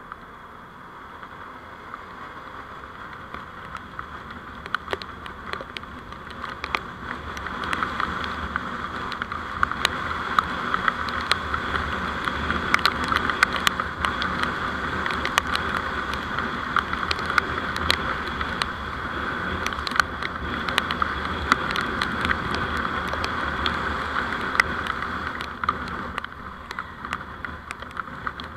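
Vehicle in motion on the road: steady road and engine noise with many small sharp clicks and rattles. It grows louder about a quarter of the way in and drops back near the end.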